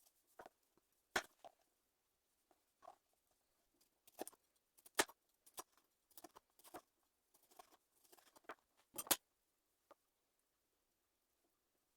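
Knife tapping on a chopping board as tomatoes are cut into quarters: irregular, sharp knocks, the loudest a little before halfway and again about three quarters through.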